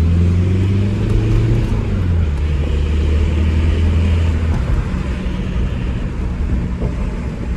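Nissan S14 Silvia being driven: a steady low engine drone with road and tyre noise. The engine drone drops away about four and a half seconds in, leaving the rumble and hiss of the road.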